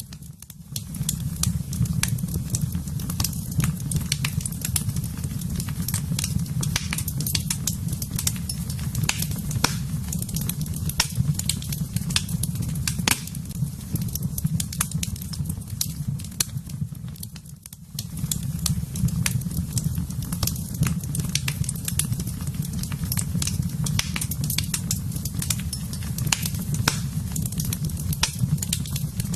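Wood fire crackling in a fireplace: irregular sharp pops and snaps over a steady low rumble of the burning flames. The rumble dips briefly twice, just after the start and about seventeen seconds in.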